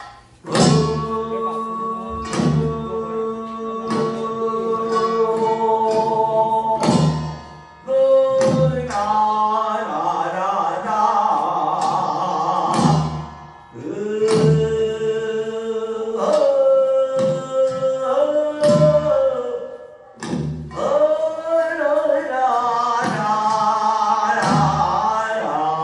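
Korean traditional music accompanying a deotbaegi dance: a long-held melodic line, sung or played, over low drum strokes every second or two.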